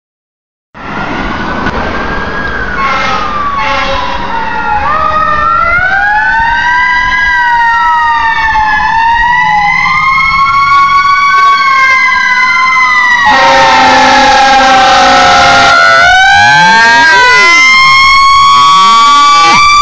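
Emergency sirens of a fire engine and an ambulance sounding together, several tones wailing up and down over one another and growing steadily louder as the vehicles approach. A long blaring horn blast cuts in about two-thirds of the way through for a couple of seconds. Near the end come faster, overlapping up-and-down sweeps.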